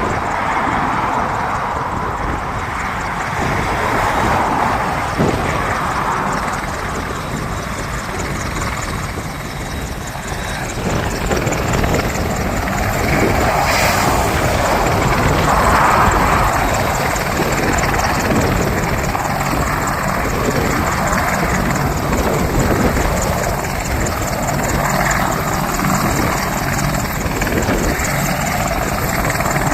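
AH-64 Apache attack helicopter running, its rotor and turbine noise loud and steady, swelling louder about halfway through.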